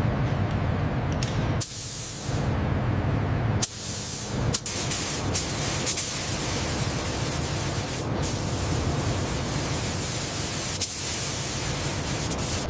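A steady hiss, like spraying, over a low rumble, broken by abrupt cuts and clicks about two, four, five and eleven seconds in.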